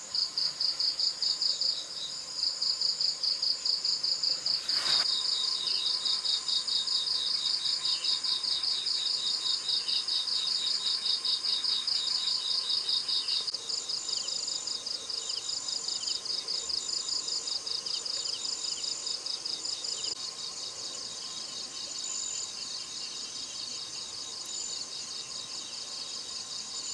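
Insects chirping in a fast, even pulsing trill that goes on without a break and grows somewhat softer after about half-way. A single sharp click comes about five seconds in.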